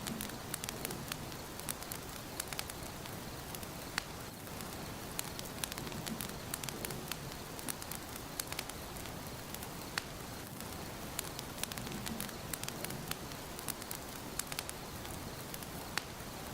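Wood fire burning in a fireplace: a steady hiss with frequent sharp, irregular crackles and pops.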